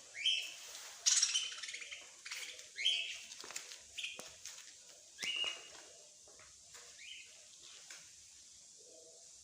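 Small songbirds chirping: short sharp calls repeated about once a second, which die away about two-thirds of the way through.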